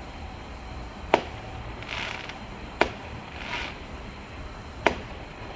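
Consumer firework cake firing: three sharp reports, about one and a half to two seconds apart, with softer hissing bursts between them.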